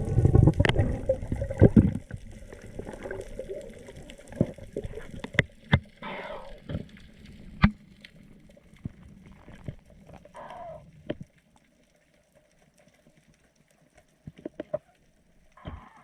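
Underwater water noise through an action-camera housing: a loud rush of water in the first two seconds, then scattered sharp clicks and knocks with a few short bubbly gurgles. It goes nearly quiet about eleven seconds in, leaving a faint steady hum and a few more clicks near the end.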